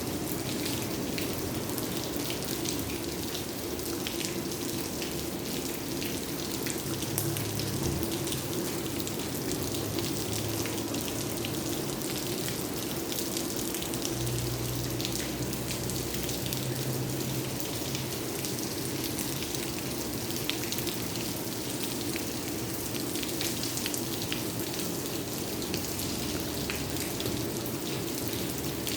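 Steady rain falling, with many individual drops ticking on surfaces. A faint low hum swells twice.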